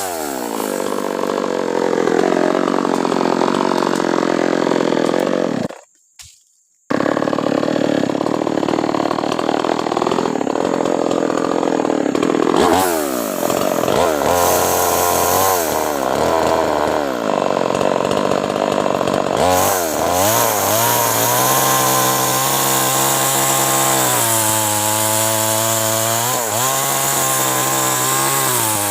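Chainsaw cutting acacia wood: the engine's pitch repeatedly sags under load and climbs back as the cut eases. It breaks off suddenly for about a second around six seconds in, then runs at a steadier pitch in the last third.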